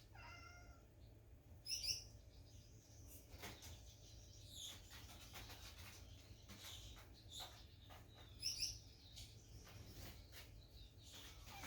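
African grey parrot giving a few short, high chirps and whistles, the loudest about two seconds in and again about eight and a half seconds in, with faint clicks between.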